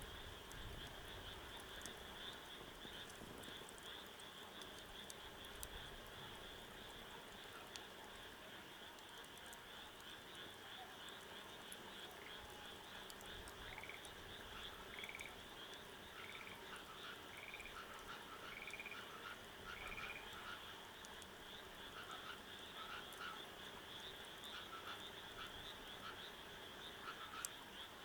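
Frogs calling in a faint chorus: a steady high trilling throughout, with one frog repeating a short call about once a second through the middle stretch.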